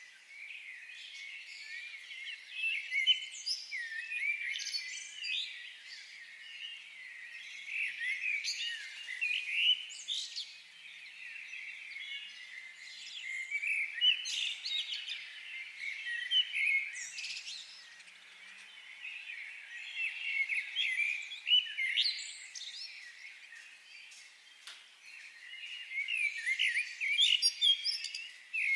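Several forest songbirds chirping and singing at once, overlapping high calls and trills that come and go in bouts every few seconds.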